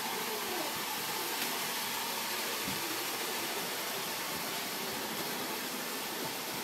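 Roomba robot vacuum running, a steady even hiss with no change in pitch.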